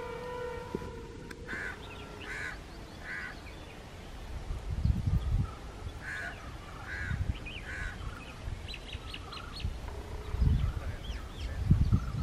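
Birds calling: two runs of three short, evenly spaced calls, then a flurry of higher chirps, over several low rumbles.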